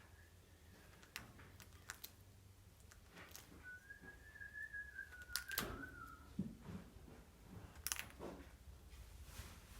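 A faint whistled tone held near one pitch for about two seconds in the middle, rising slightly and then falling away, among scattered soft clicks and knocks.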